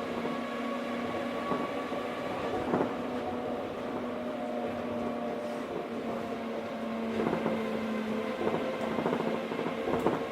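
Osaka Monorail 1000 series train running at speed, heard from inside the car: a steady motor hum over rubber-tyred rolling rumble. A few brief knocks come about 3, 7 and 10 seconds in.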